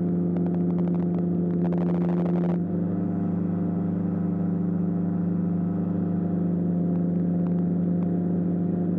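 Ultralight aeroplane's engine and propeller running steadily at cruise power, about 5,200 RPM, heard from the cockpit. A crackling hiss lies over it for the first two and a half seconds and cuts off abruptly.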